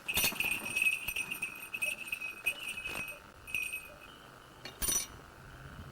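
A bird of prey calling: a high, shrill call held for about three seconds, then a short repeat and a brief sharp burst near the end.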